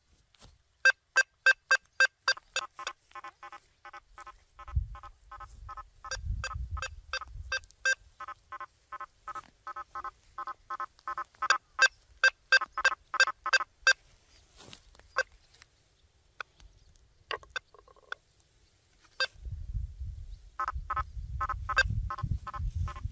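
Quest V80 metal detector on a 9-inch coil giving rapid trains of short electronic beeps as it is swept over a nailboard, switching back and forth between a higher tone and a lower one as it separates the target from the iron nails. The beeping pauses for a few seconds in the middle, and a dull low rumble of coil handling comes in under it at times.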